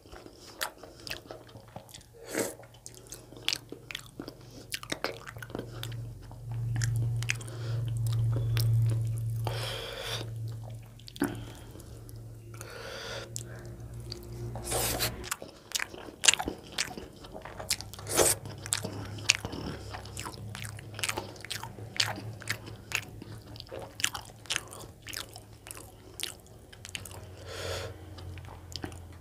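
Close-miked chewing and biting of soft roti with fried egg and curry: a dense run of wet mouth clicks and smacks over a low rumble of jaw movement.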